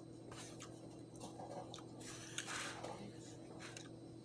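Faint chewing of a mouthful of food close to the microphone, with a few soft clicks and a short noisy sound about two seconds in. A steady low hum runs underneath.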